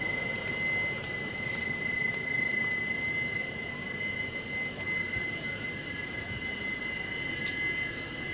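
Steady mechanical hum from a standing passenger train, with a constant high-pitched whine over a rumbling noise.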